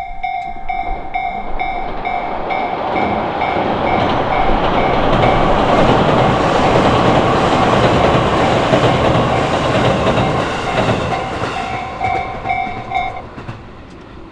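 Railway level-crossing warning bell dinging in a steady repeating two-tone pulse while a train passes over the crossing. The rumble and clatter of its wheels on the rails swell and then fade. The bell stops near the end.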